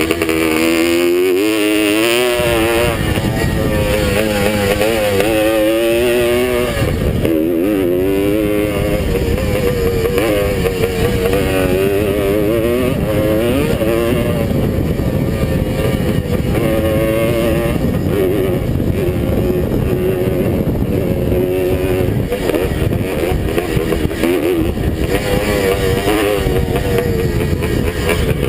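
Vintage two-stroke Suzuki motocross bike's engine revving hard through the gears, its pitch climbing and dropping over and over as the throttle opens and shuts, with one sharp drop and climb about seven seconds in.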